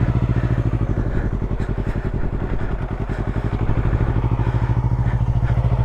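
Motorcycle engine running at low revs with an even, pulsing beat, easing slightly about two seconds in and rising again toward the end.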